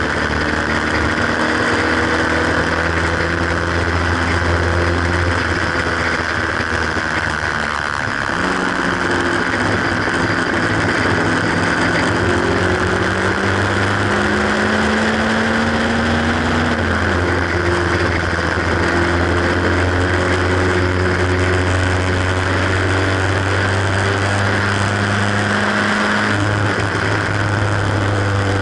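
Haynes Roadster kit car's 1800 engine, heard from the cockpit at racing speed. Its pitch climbs and falls back several times, with one long climb ending about seventeen seconds in. There is steady wind rush over the open car throughout.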